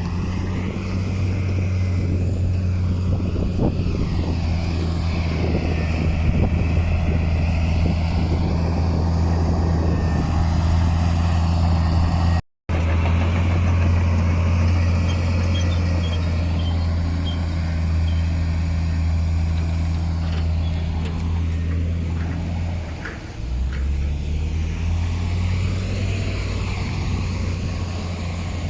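Heavy diesel engine of earthmoving equipment running steadily under load, with a deep, even drone. The sound cuts out for a split second about halfway through. Near the end the engine briefly drops and then picks up again.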